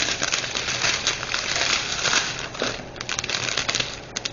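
Small plastic bags of diamond painting drills crinkling as they are handled, with scattered clicks. The crinkling is dense at first and thins to a few clicks near the end.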